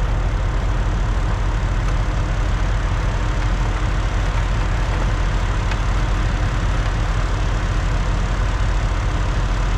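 An engine idling steadily: an even, low drone with a constant hum.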